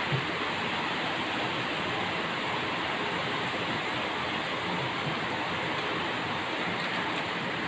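Heavy thunderstorm rain pouring steadily, an even hiss.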